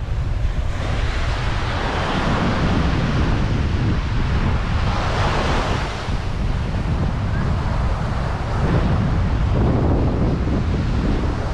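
Ocean surf washing onto the beach, with wind rumbling on the microphone; the wash swells a couple of times.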